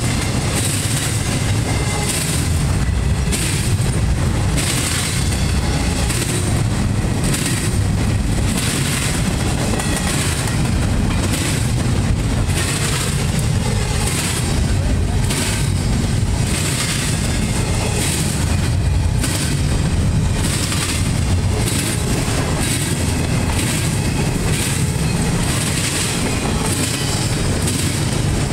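Empty double-stack intermodal well cars of a freight train rolling past, with a steady wheel rumble and a repeating clickety-clack as the steel wheels cross the railroad diamond and rail joints.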